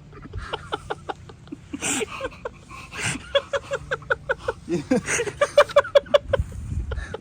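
Men laughing hard, in long runs of quick, evenly spaced 'ha-ha' pulses.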